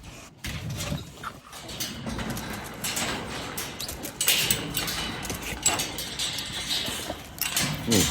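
Dogs eating a raw-food meal softened with hot water, with irregular clicks, knocks and wet noises as they feed.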